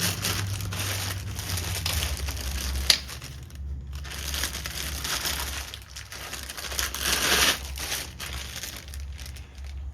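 Plastic packaging crinkling and rustling in uneven swells as rack parts are unwrapped and handled, with one sharp click about three seconds in.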